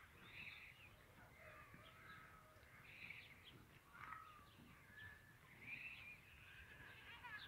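Faint chirping and calling of several birds, short scattered calls, some sliding in pitch.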